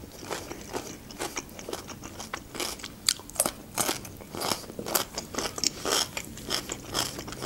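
Raw green onion stalk being bitten and chewed, a run of irregular crisp crunches.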